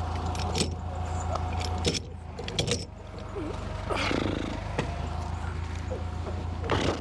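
Forklift engine running steadily, easing off briefly about two seconds in, with sharp metallic clanks and rattles now and then as logs are handled.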